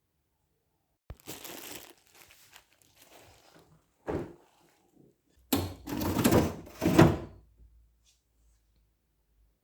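Kitchen handling noises: a sharp click, a stretch of rustling, a single knock, then a louder cluster of clattering knocks, as of things being picked up and set down.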